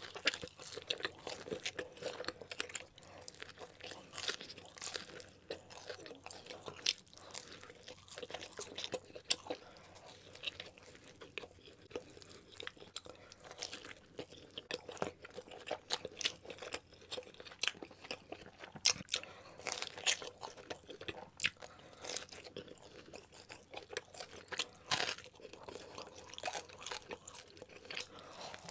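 Close-miked eating of pizza and a cheeseburger: steady chewing and crunching with many sharp mouth clicks, and a bite into the cheeseburger near the end.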